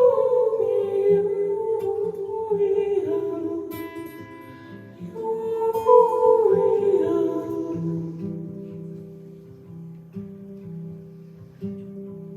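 Live music: a voice sings two long, falling phrases over plucked guitar, then the music quietens to softer held notes.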